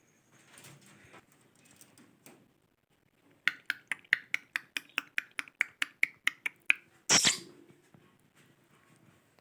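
A parrot making a fast, even run of sharp clicks, about five a second, followed by one louder, short harsh burst.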